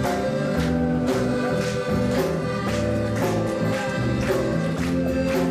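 Live reggae band playing an instrumental passage between sung lines, with sustained chords over a steady beat.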